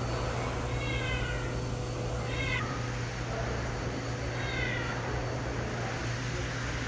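A Himalayan cat meowing three times, short drawn-out calls with falling pitch, over a steady low hum.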